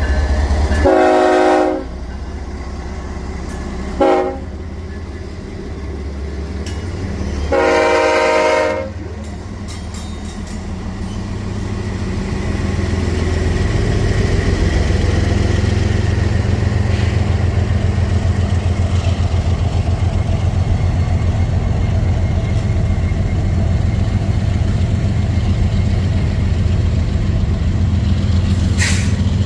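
Diesel locomotive horn sounding three blasts, long, short, long, then the locomotive's engine and wheels rumbling steadily louder as the train draws near and passes. A brief hiss near the end.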